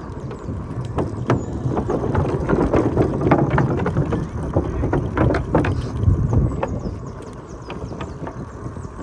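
Outdoor street noise: a low rumble of traffic, probably with wind on the microphone, and scattered clicks and knocks. It is loudest through the middle few seconds.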